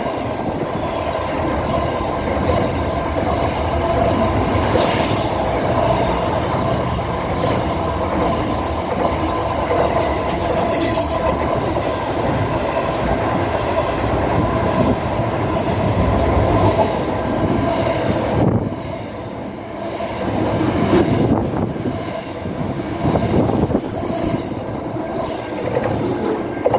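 A train running on the rails, with steady high wheel squeal over the noise of the running train. The sound drops for a moment about two thirds of the way through.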